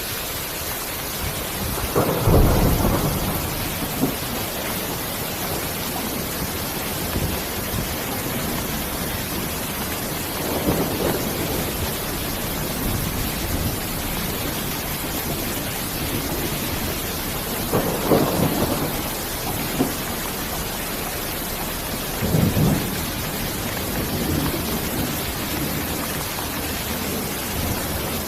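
Steady rain hissing, with four short rumbles of thunder spread through it.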